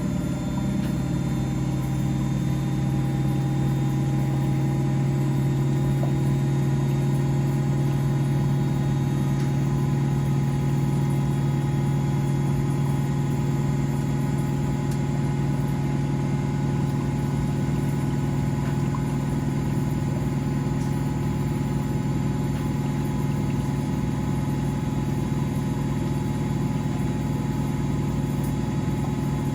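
Washing machines and tumble dryers running together: a steady motor hum with a strong low tone and fainter higher tones, rising slightly in pitch over the first few seconds, then holding.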